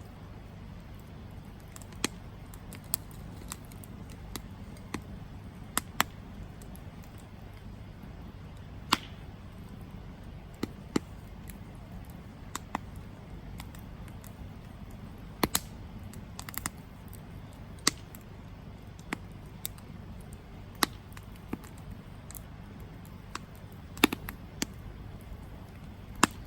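Wood campfire crackling: sharp pops and snaps at irregular intervals, a couple of dozen in all, over a steady low rumble. The loudest pop comes near the end.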